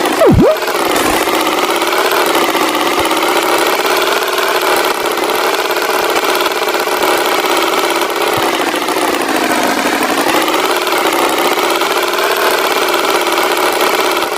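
Engine running steadily, its pitch wavering slowly up and down. A brief swooping whistle-like glide, down and back up, sounds right at the start.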